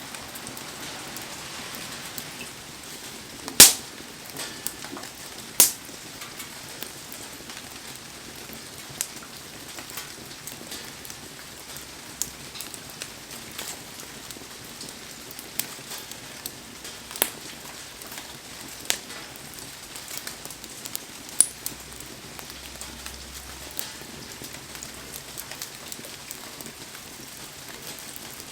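Heavy rain falling with a steady hiss, over a wood bonfire that gives scattered sharp pops and cracks, the loudest two about four and six seconds in.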